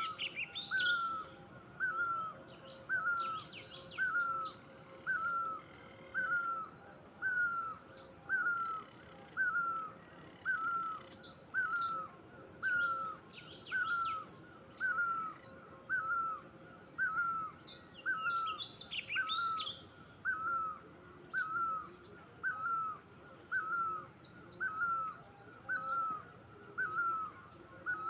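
Birds calling: one bird repeats a short, falling note a little more than once a second, steady and evenly spaced, while other birds add bursts of high chirps and twitters every few seconds.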